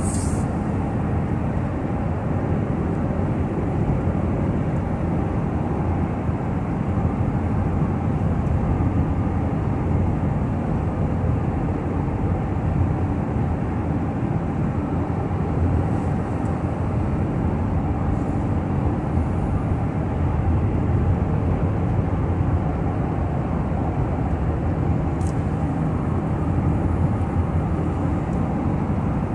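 Steady low drone of a moving car's road and engine noise, even throughout, with a couple of faint brief ticks about 16 and 25 seconds in.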